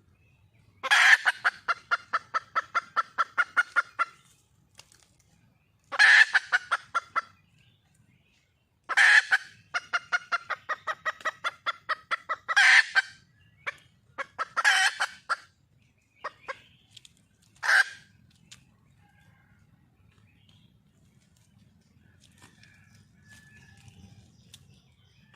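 Red junglefowl hen calling for a mate: repeated bouts of rapid clucking, each opening with a loud note and running on in quick pulses of about six a second, the longest lasting about three seconds. The calls stop about two-thirds of the way through.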